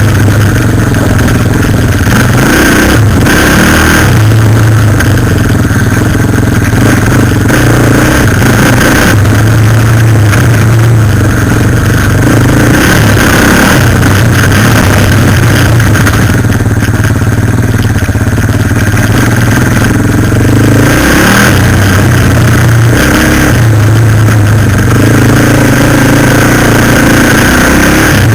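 Suzuki LTZ 400 quad bike's single-cylinder four-stroke engine running loud, its revs rising and falling every few seconds as the throttle is worked.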